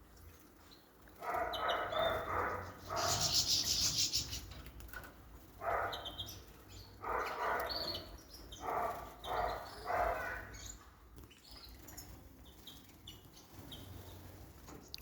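Small cage birds bathing: repeated short bursts of splashing and wing-fluttering in the water, with a high chirping burst about three seconds in.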